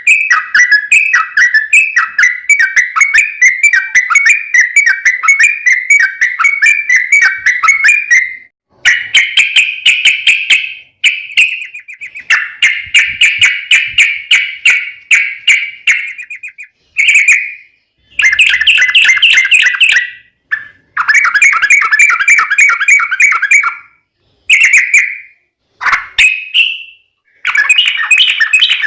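Yellow-vented bulbul (trucuk) singing loudly: a long fast run of repeated notes for about eight seconds, then a string of shorter bubbling song phrases with brief pauses between them.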